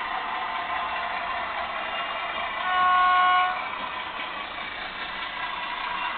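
Loksound sound decoder in an S-scale model of an NZR Di class diesel locomotive, played through the model's small speaker: a steady diesel engine sound, with one short horn blast about three seconds in.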